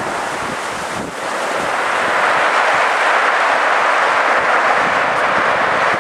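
Storm-driven sea and wind: a steady rushing noise of surging water and gusting wind that grows louder about a second in and then holds.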